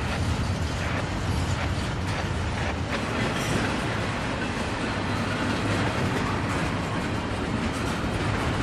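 Norfolk Southern freight train rolling by: the steady rumble of its diesel locomotives mixed with the noise of steel wheels on the rails.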